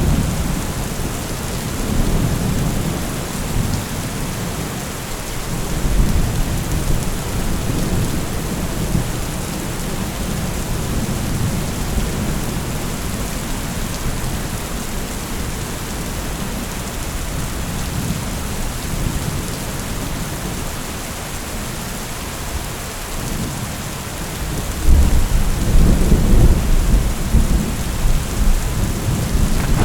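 Steady rain with rolling thunder. Low rumbles swell a few times, and the loudest rolls in near the end.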